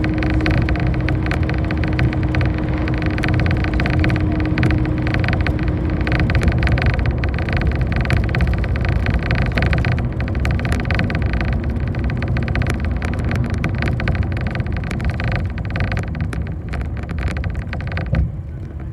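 City bus driving, heard from inside: steady engine and road noise with a constant whine that stops about a third of the way in. Near the end there is a short knock, and the noise suddenly drops much lower.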